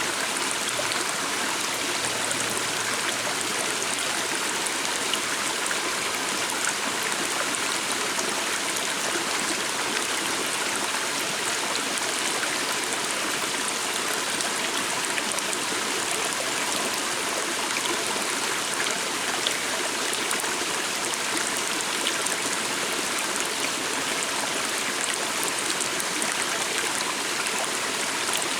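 Flowing water stream: a steady, even rush and babble of water over rocks.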